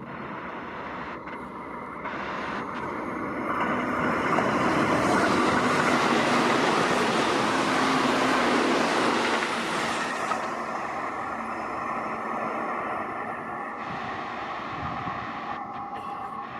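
Keihan 1000 series electric train passing through the station as an express without stopping: a steady rushing rumble of wheels and motors that builds over a few seconds, is loudest for about six seconds, then slowly fades as the train moves away.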